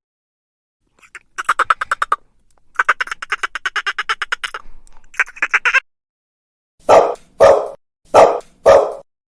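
A fast rattling animal call in three runs, then a dog barking four times near the end.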